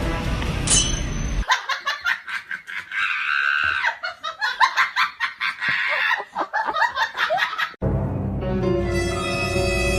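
Background music, then about six seconds of high-pitched laughter in quick repeated bursts, cut off by the music starting again.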